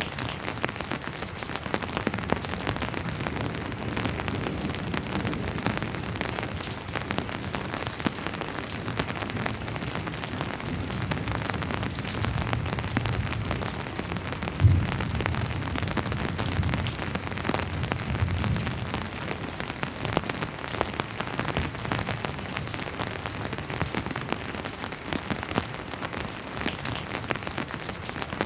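Steady rainfall with many separate drops striking close by. A low rumble of distant thunder rises and fades through the middle, with one sharp low thump about fifteen seconds in.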